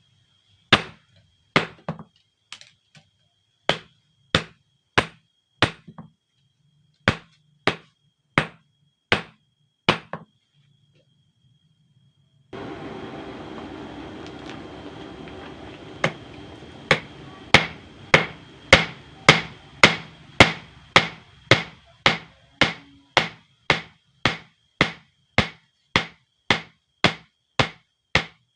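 Hand hammer striking hot steel from an old bearing on an anvil during knife forging: single ringing blows at uneven spacing with short pauses, then after a gap a steady rushing noise starts suddenly and slowly fades while the blows come back in a steady rhythm of about two a second.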